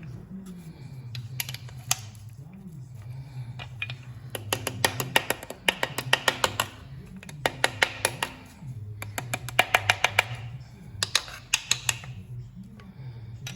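A ratchet wrench clicking in several quick bursts, about ten clicks a second, as it tightens a piston ring compressor around a piston going into the engine block. Background music plays underneath.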